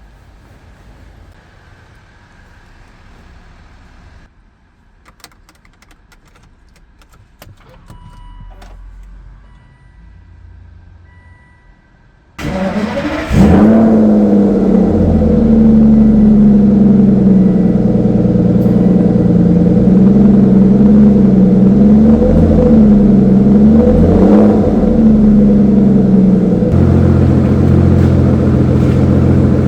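Aston Martin DBS Volante V12 cold start. After some quiet with a few clicks and faint chime tones, the engine cranks and fires about twelve seconds in, with a loud rev flare. It then settles into a high cold-start fast idle with small rises and dips, and the idle drops to a lower, deeper note near the end.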